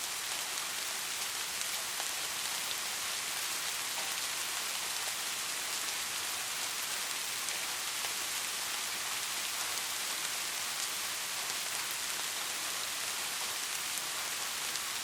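Steady rain falling, an even hiss of many drops with faint scattered drop ticks and no change in intensity.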